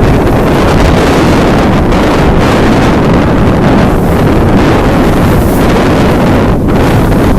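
Strong wind buffeting the microphone aboard a sailing yacht: a loud, steady rumbling rush.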